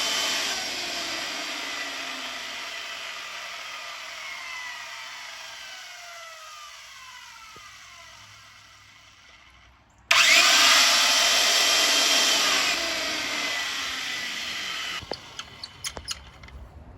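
Electric power tool motor switched off and winding down, its whine falling in pitch and fading over about nine seconds. It is then switched back on with a rising whine, runs loudly for about five seconds and stops abruptly, followed by a few light clicks and taps.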